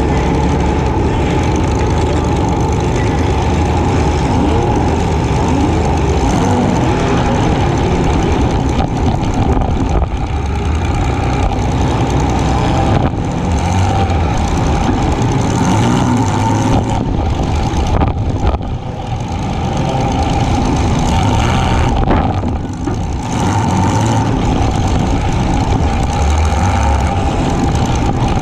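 Demolition derby compact car's engine running loud and steady, with two brief dips in loudness past the middle.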